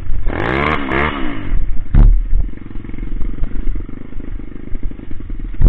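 Coolster Speedmax 125 pit bike's single-cylinder four-stroke engine revving up and back down, then running unevenly with irregular pops and a sharp knock about two seconds in. It is misfiring, which the owner puts down to a wrong-size pilot jet.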